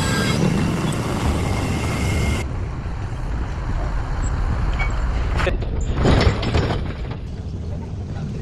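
A heavy engine running with a steady low rumble, with a short, louder burst of noise about six seconds in.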